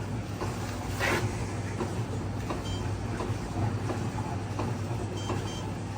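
Dishwasher control panel giving short, faint electronic beeps, once about three seconds in and again near the end, as its buttons are pressed to call up stored fault codes. A steady low hum runs underneath.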